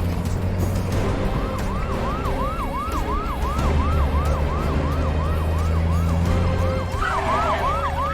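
Police siren on a fast yelp, rising and falling about three times a second, over the steady low rumble of vehicles on the highway. A second siren joins near the end.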